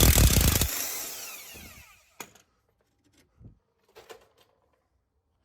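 Impact wrench hammering on a 17 mm strut-to-knuckle pinch bolt, loosening it, in a short loud burst of rapid blows, then the motor whining down for about a second. A few light clinks follow.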